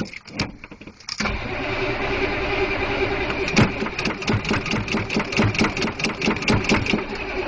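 Cold 6.2 L diesel V8 of a CUCV M1009 Blazer cranking briefly, then catching about a second in and running with uneven, knocking firing. It is struggling to keep running on a cold start and soon starts to falter.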